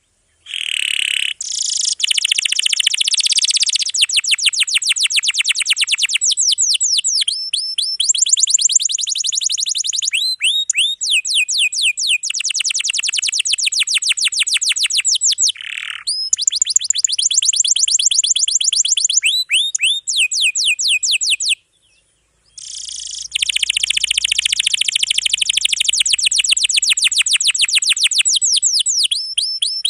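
Domestic canary singing long rolls: rapid trills of repeated high notes that change type from phrase to phrase. The song stops briefly about a second in and again about two-thirds of the way through.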